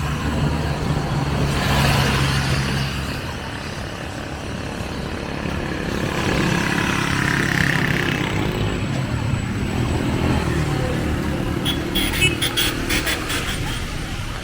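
Street traffic: vehicle engines running and passing close by, swelling twice, with a quick rattling clatter near the end.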